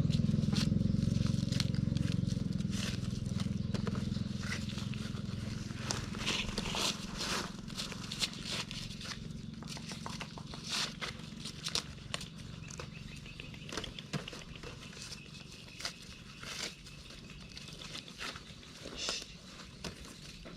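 Dry corn plants rustling and crackling with many short snaps, as ears and stalks are handled and broken off by hand. A low engine hum fades away over the first several seconds.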